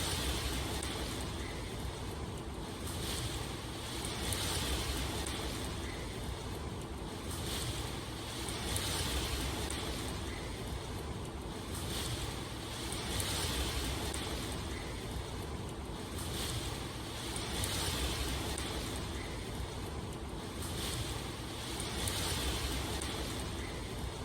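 Steady rushing noise of water, swelling and easing about every four to five seconds.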